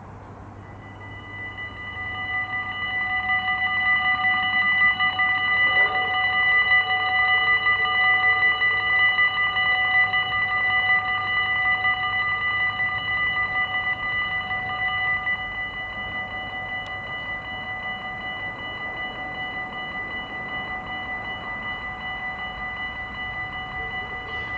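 Railway level-crossing warning bell starting about a second in and ringing steadily with a rapid pulse, getting louder over the first few seconds and dropping somewhat in level about fifteen seconds in. It signals an approaching train.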